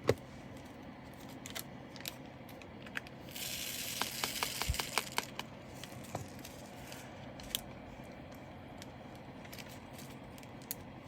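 Small plastic diamond-painting drills and plastic bags being handled: a sharp click at the start, scattered light clicks, and about three seconds in a rustling rattle of roughly two seconds with a quick run of ticks as the drills move in a bag.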